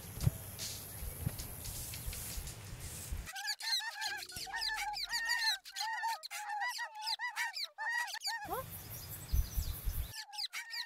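Birds chirping in a rapid run of short repeated calls, over a hissy outdoor ambience that carries the first few seconds; a second short run of chirps comes near the end.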